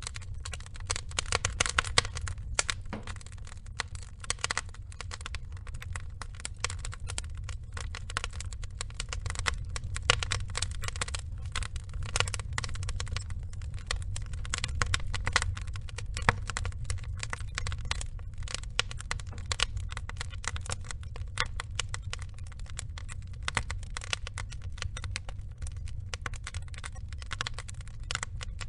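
Burning log fire crackling: dense, irregular pops and snaps over a steady low rumble, with some louder cracks scattered through.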